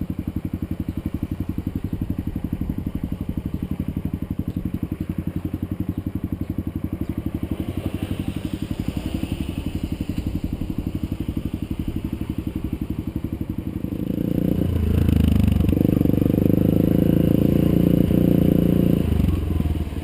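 Vehicle engine idling with an even, rapid pulse, then revving louder for about five seconds as it pulls away, and dropping back near the end.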